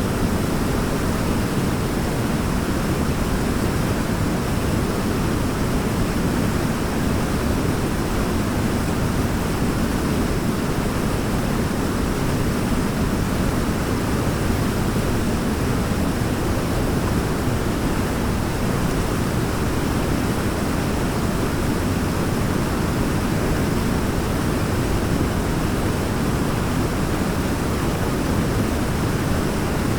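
Waterfall: a steady, unbroken rush of falling water, deepest in the low range.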